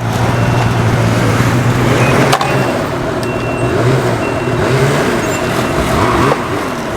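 Snowmobile engine running steadily with a low hum.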